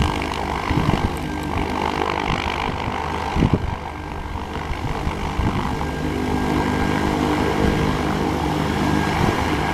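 Light propeller aircraft's piston engine running steadily. Two brief knocks come about one second and three and a half seconds in.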